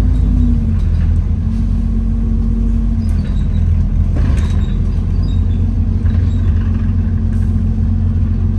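Inside an Alexander Dennis Enviro400 double-decker bus on the move: a steady low engine and drivetrain rumble with a droning hum over it, the hoover-like noise these buses make. The hum drops out briefly about half a second in and comes back, with a faint rattle around the middle.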